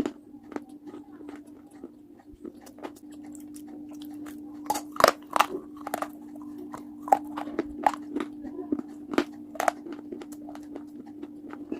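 Close-up biting and crunching of hard, brittle pieces: a run of sharp cracks and crunches, loudest about five seconds in, over a steady low hum.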